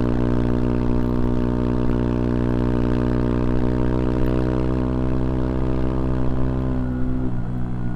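CFMoto Papio XO-1's single-cylinder engine running at steady revs under way, its exhaust note holding one pitch. Near the end the revs drop as the throttle eases off.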